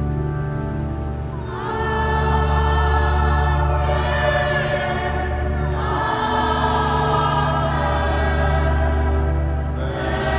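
Choir singing sacred music with organ accompaniment: steady organ chords held throughout, with the voices coming in about a second and a half in and singing sustained phrases over them.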